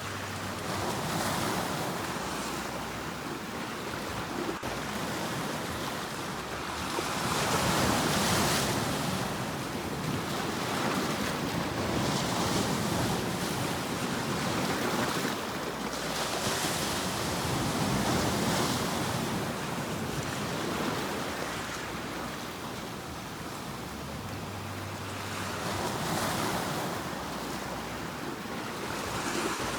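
Sea waves breaking and washing onto a shore, each surge swelling and falling back every few seconds.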